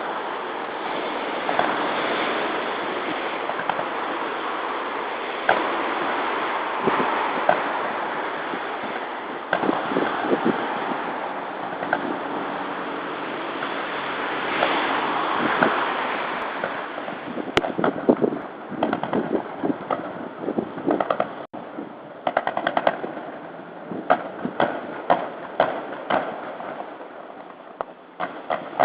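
Distant fireworks bursting: single sharp cracks over a steady rush of road traffic, then from a little past halfway rapid clusters of pops and crackles.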